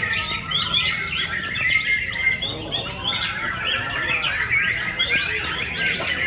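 Many birds chirping and squawking at once, a dense overlapping chorus of short calls.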